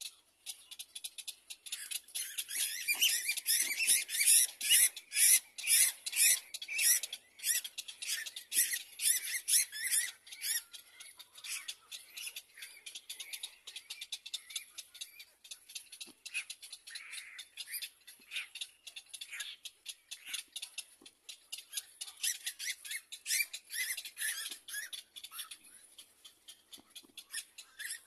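Rapid series of high-pitched, squeaky bird calls, loudest through the first third and again a little before the end.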